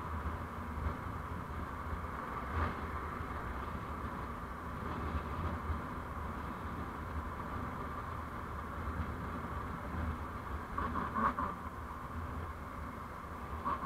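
Steady road and engine noise of a vehicle being driven, with a low rumble throughout and a couple of brief knocks, one near the start and one near the end.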